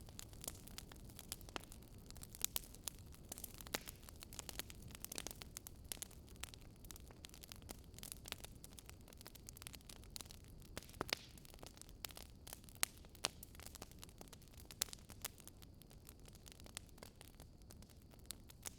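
Wood fire burning in a fireplace, crackling and popping at irregular intervals over a low steady rumble of the flames, with a few louder pops.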